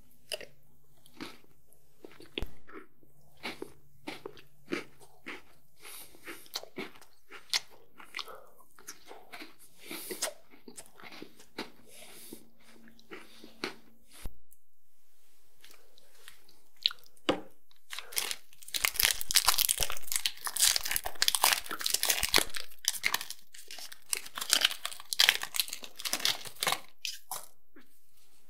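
Close-miked eating sounds: chocolate chewed with scattered soft clicks and smacks. About halfway through, after a break, comes a longer, louder stretch of dense crackling and crunching.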